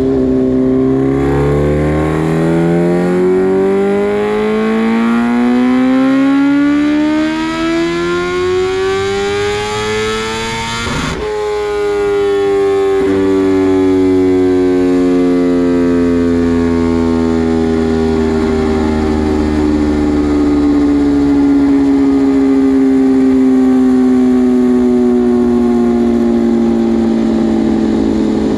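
Kawasaki Ninja H2R's supercharged inline-four on a dyno run, its pitch rising steadily for about ten seconds as it pulls through the revs. The pitch then drops suddenly as the throttle closes, and the engine winds down slowly with a falling tone.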